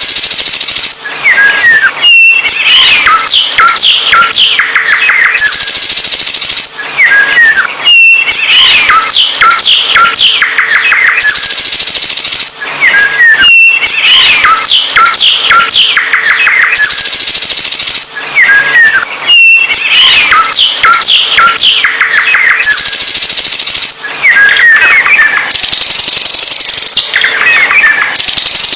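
A songbird singing loudly and continuously in rapid phrases of chirps, trills and whistled notes, the same stretch of song repeating about every six seconds like a loop.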